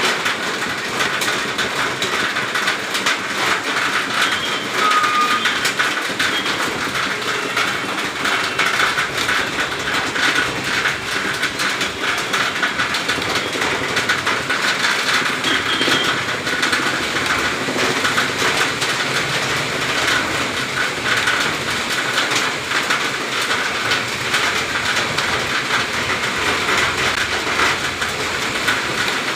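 Heavy rain falling steadily: a loud, even hiss of many drops, unchanging throughout.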